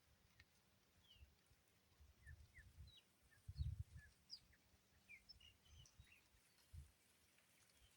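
Faint, scattered chirps of small birds, with irregular low rumbles of wind or handling on the microphone. The loudest rumble comes about three and a half seconds in.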